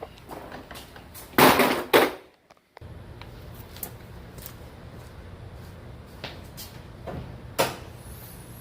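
Mechanic's creeper being grabbed and handled: a loud scraping clatter about a second and a half in. Then a steady low hum with a few faint knocks, and one sharper knock near the end.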